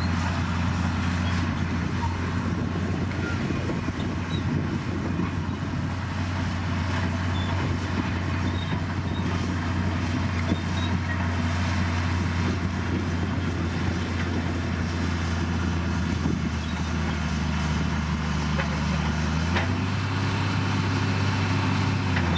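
Bulldozer's heavy diesel engine running steadily under a low drone, its pitch stepping up slightly near the end.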